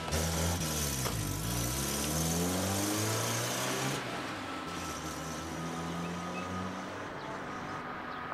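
Car engine pulling away and accelerating, its pitch dipping about a second in and then climbing. The rush of engine and road noise drops about halfway through to a steadier, quieter hum as the car moves off.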